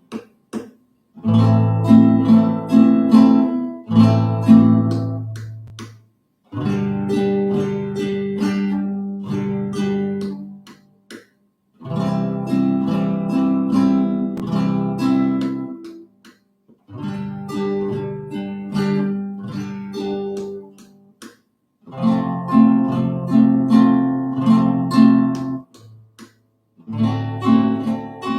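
Acoustic guitar strummed in a guarânia down-up-down-up-down pattern, working through the chords G, A minor, C, D7 and F. Each chord rings for a few seconds, with a short break at each chord change.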